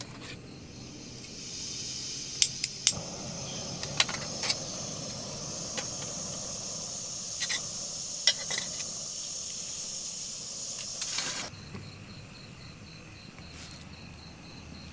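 Food sizzling in a camp pan: a steady hiss with sharp clinks and knocks of utensils, cutting off suddenly near the end.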